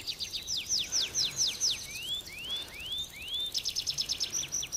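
A small bird chirping: a string of quick high notes sliding downward, then several notes sliding upward about halfway through, then a fast run of short notes near the end.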